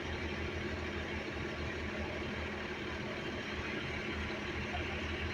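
Steady low hum of idling vehicle engines.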